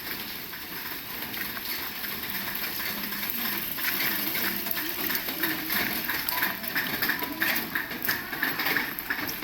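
Heavy rain falling, with many close drops striking in quick succession that grow denser and a little louder a few seconds in.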